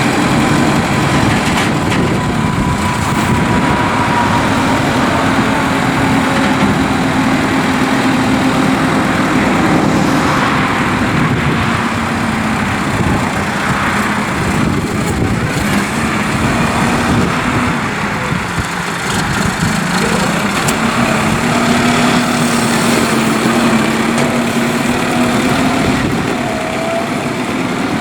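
Case IH Farmall 100C tractor's diesel engine running just after starting, its speed rising and falling slightly.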